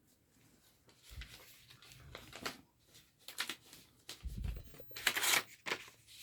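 Paper rustling and scraping as a greeting card is handled and opened, with the loudest rustle about five seconds in and a couple of dull low thumps.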